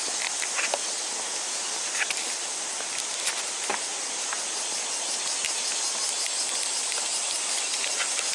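A steady, high-pitched drone of summer insects, with a few light clicks scattered through it.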